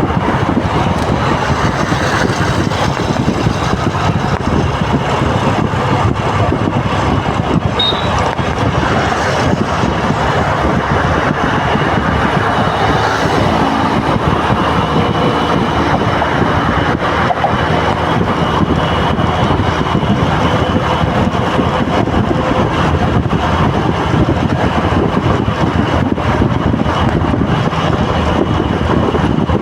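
Steady, loud road traffic noise from a congested road, with car and truck engines running.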